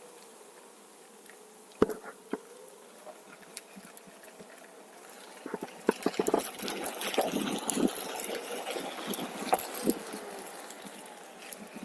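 Onewheel electric board riding: a faint hub-motor whine rises and falls in pitch with speed, with a sharp click about two seconds in. From about halfway, a louder crackling rumble of the tyre rolling over rough trail takes over.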